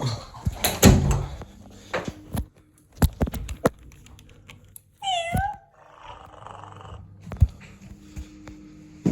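Cat meowing once, a single falling call about five seconds in, amid a series of knocks and thuds.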